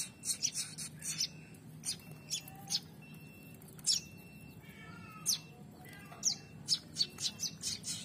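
Young prenjak (prinia) birds giving short, sharp, high chirps at irregular intervals, some in quick clusters: begging calls of fledglings. A faint steady low hum lies beneath.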